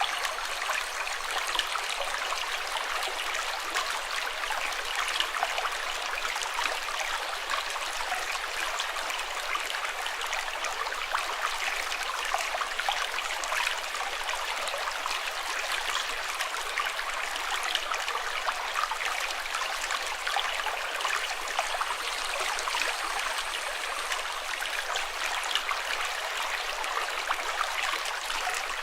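Running water with a steady babble and trickle and fine splashing detail, even and unbroken, as from a brook.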